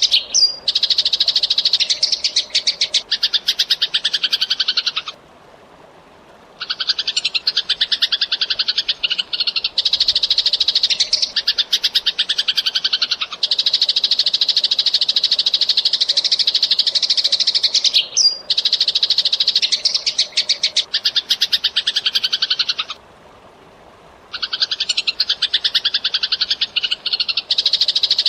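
Eurasian tree sparrow chattering in fast, tightly packed runs of chirps. There are two short breaks, about five seconds in and again about 23 seconds in.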